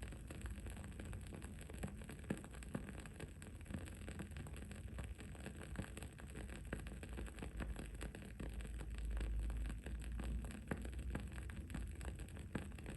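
Wood-wick candle crackling with small, irregular pops, over a steady low background rumble that swells briefly about two-thirds of the way through.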